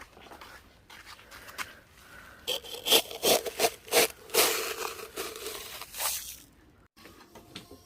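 A run of quick scraping and rubbing strokes, loudest through the middle few seconds and fading near the end.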